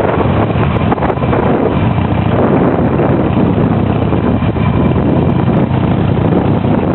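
Harley-Davidson V-twin motorcycle engine running steadily while riding, with wind buffeting the microphone.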